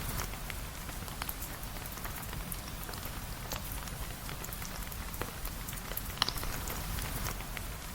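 Steady rain falling, with scattered sharp ticks of single drops over a low rumble, and one louder tick about six seconds in.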